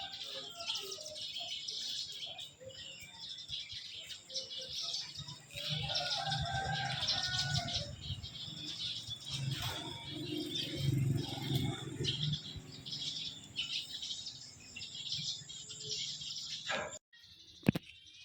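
Many small birds chirping in a dense outdoor chorus, with a low rumble under it in the middle; the sound cuts off suddenly about a second before the end, leaving a few short clicks.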